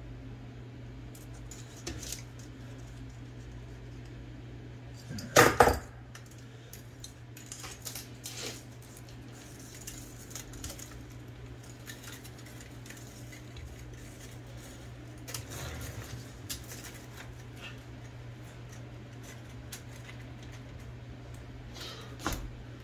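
Small metal typewriter parts clinking and clattering as they are handled and set down, with one louder clatter about five seconds in. A steady low hum runs underneath.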